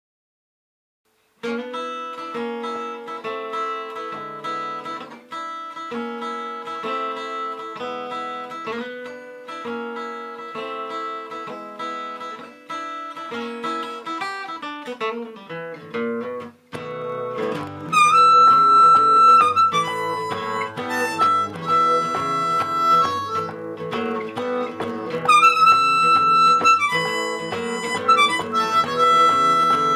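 Acoustic guitar and harmonica playing an instrumental intro, starting about a second and a half in. About halfway through the music gets louder, with long held harmonica notes over the guitar.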